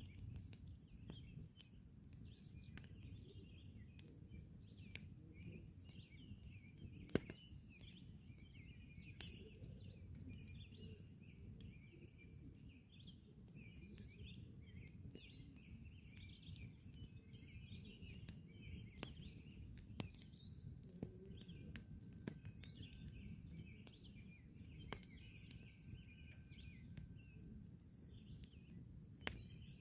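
Campfire crackling softly with scattered sharp pops, one much louder snap about seven seconds in, while many small birds chirp and twitter without a break.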